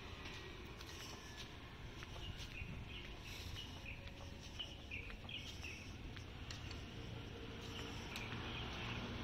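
Faint outdoor street ambience: a small bird chirping a short run of high notes a few seconds in, over a low steady rumble.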